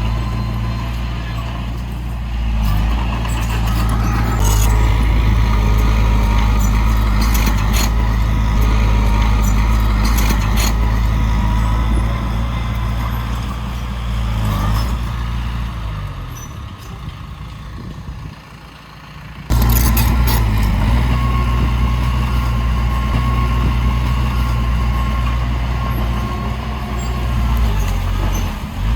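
Heavy diesel engines of earthmoving machines (dump trucks and bulldozer) running steadily, with scattered knocks and clanks. About two-thirds through the sound fades, then comes back suddenly at full level.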